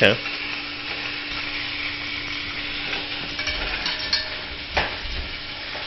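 Chicken and side pork browning in butter in a Dutch oven, a steady sizzle as the pieces start to crisp. Two sharp knocks, one right at the start and one about five seconds in.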